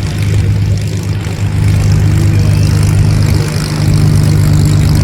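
Propeller aircraft engine running loud and steady overhead, a low drone whose pitch rises a little about halfway through.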